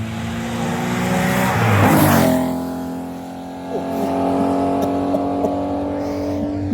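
Porsche rally car passing close at speed on a stage: its engine note swells to a peak about two seconds in, drops in pitch as it goes by, then holds a steady high note as the car pulls away.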